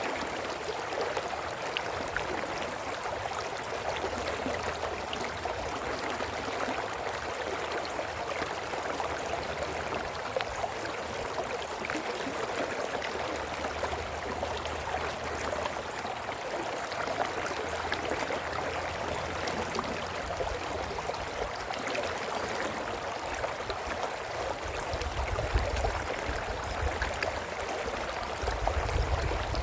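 Brook babbling steadily over stones, a continuous rushing and gurgling of running water, with a low rumble swelling near the end.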